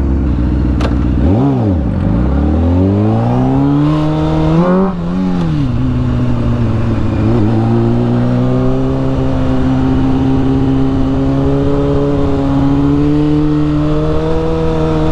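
Honda CBR600 F4i inline-four sport bike engine under way. The revs rise and fall twice in the first five seconds as it shifts, then it settles into a steady pull with the pitch creeping slowly up.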